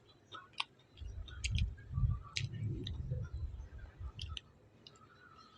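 Close-miked eating: chewing with sharp clicks and mouth smacks, heavier chewing from about a second in that eases off near the end.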